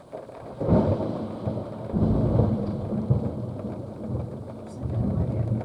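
Thunder: a sudden loud clap a little under a second in, then a low rolling rumble that swells again about two seconds in, over steady rain.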